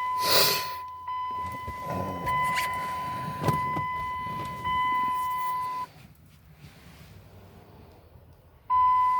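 A steady, high electronic warning tone from inside the truck's cab. It cuts out for about three seconds near the end, then comes back on. Just after the start there is a brief loud noise, and a sharp click comes about three and a half seconds in.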